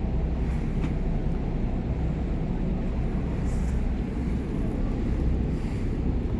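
Steady low rumble of a harbour ferry's engines under way, with wind noise on the microphone.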